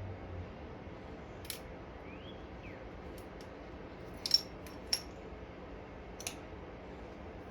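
Small metal parts and tools clinking as loose bolts are searched for: a handful of sharp, separate metallic clinks, the loudest just over four seconds in, with another about a second later.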